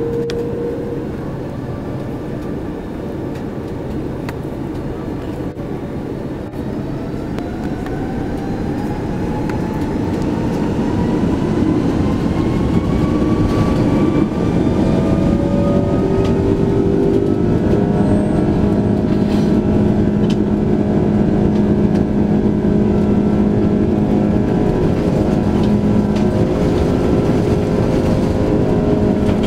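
Airbus A330-300 jet engines heard from inside the cabin spooling up to takeoff thrust: a whine rising in pitch over about ten seconds as the noise grows, then holding steady and loud with the rumble of the takeoff roll.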